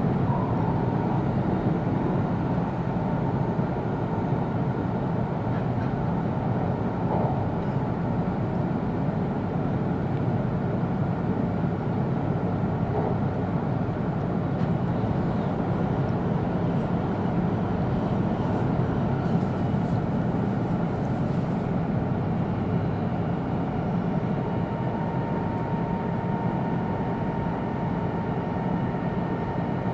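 Steady running noise of an E2-series Shinkansen heard from inside the passenger car: a continuous low rumble at an even level, with a faint steady tone coming in during the last few seconds.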